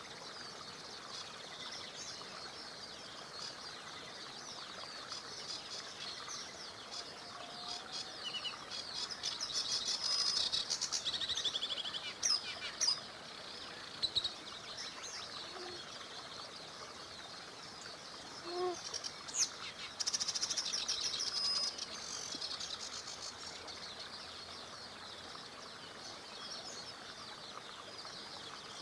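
Many songbirds singing and chirping over the steady hiss of a flowing river. A louder, fast trilling song comes in twice, about ten and about twenty seconds in.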